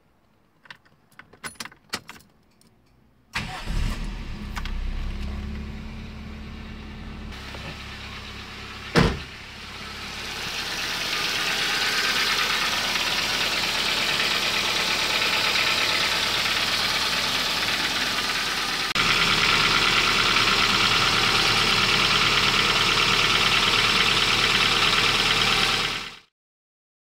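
A few clicks, then the 1996 Toyota Starlet's 1.3-litre 4E-FE four-cylinder engine starts about three seconds in and keeps running, with one sharp knock a few seconds later. From about ten seconds the running is heard close up from under the car by the newly fitted manual gearbox, a steady noise that gets louder again a little before twenty seconds and then cuts off suddenly.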